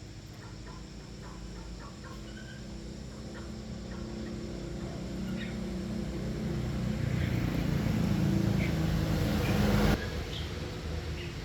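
Small engine running steadily, growing gradually louder and then dropping suddenly about ten seconds in, with faint chicken and bird calls.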